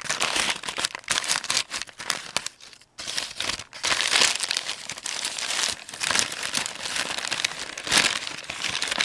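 Brown paper wrapping crinkling and rustling as it is handled and pulled off a package, in irregular crackly spurts with a short pause about two and a half seconds in.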